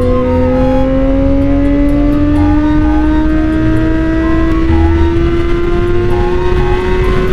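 Suzuki GSX-R sport bike's inline-four engine pulling hard at high revs, its pitch rising slowly and steadily as the bike accelerates in one gear, over a low rush of wind.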